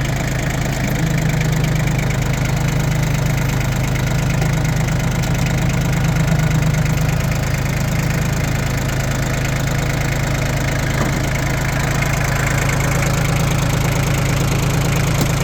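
Yanmar F20D compact tractor's diesel engine running steadily at idle.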